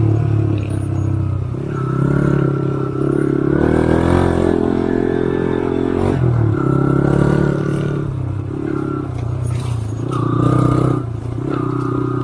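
Off-road motorcycle engine running under load. Its note rises and falls and drops away every second or two as the throttle is opened and closed.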